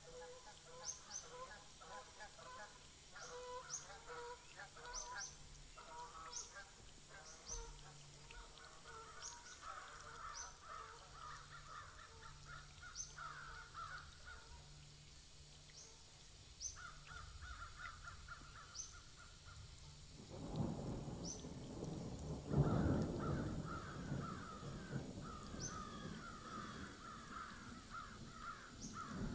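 Birds calling over and over, with short high chirps scattered throughout. About two-thirds of the way in, a louder rushing noise joins them.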